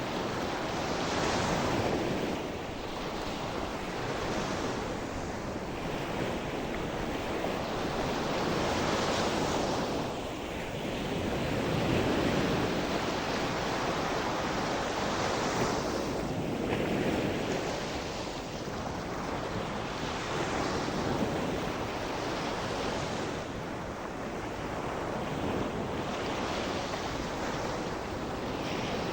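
Sea surf: waves breaking and washing on the shore, the rush swelling and easing every few seconds, with some wind on the microphone.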